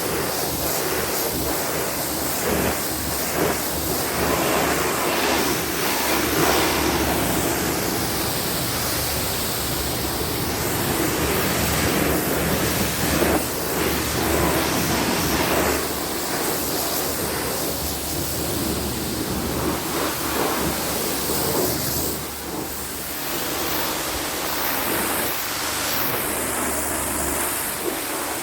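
Pressure-washer spray hitting a car's body: a steady hiss of water that swells and dips as the spray moves over the panels.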